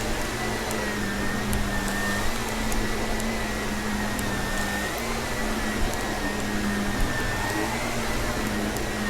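Vacuum cleaner running steadily, a motor whine that wavers slightly in pitch over a rushing airflow. Scattered small ticks and crackles come from crunchy natural debris being sucked up.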